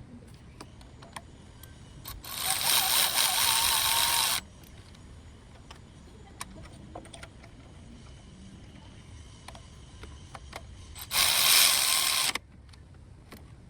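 Two bursts of pressurised spray hissing: one of about two seconds a couple of seconds in, and a shorter one of just over a second near the end. Light clicks of tools being handled come between them.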